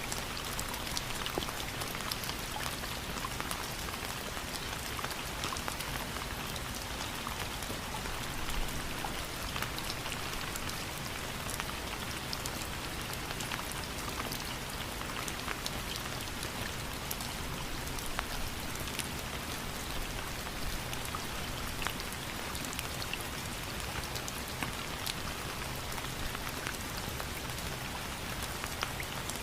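Steady rain falling on a surface, an even hiss with many small sharp drop ticks throughout.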